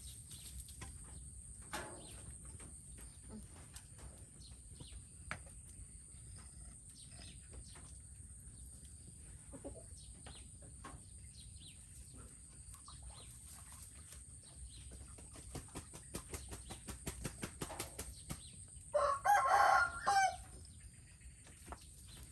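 A rooster crowing once, a single call of about a second and a half near the end. Before it comes a run of quick clicks or taps.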